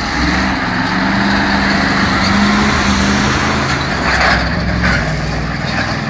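A heavy timber truck's diesel engine runs hard under load, with a steady low drone over a rough rushing noise. The drone's held pitch fades away about three and a half seconds in.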